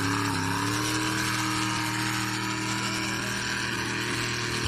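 Tractor-pull tractor engine running hard and steadily, its pitch rising slightly in the first second and then holding.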